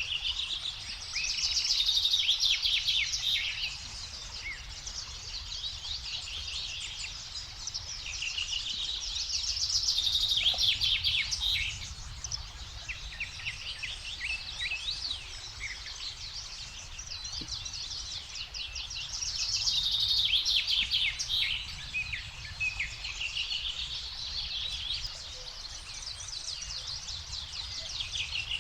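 Songbirds singing, with a loud song of rapid chattering notes that comes back about every eight to nine seconds and softer calls in between, over a steady low rumble.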